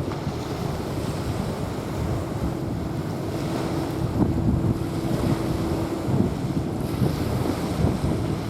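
Small waves washing onto a sandy beach, with wind buffeting the microphone as a low rumble. A faint steady hum sits underneath.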